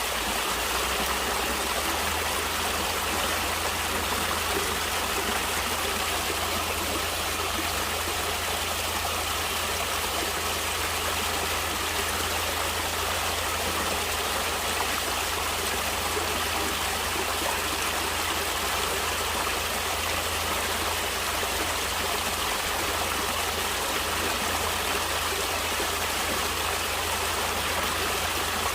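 Stream water flowing steadily over rocks, a continuous rushing and babbling.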